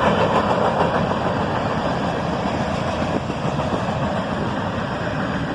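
Freight train cars rolling past on the rails, a steady rumble and hiss that eases slightly in level.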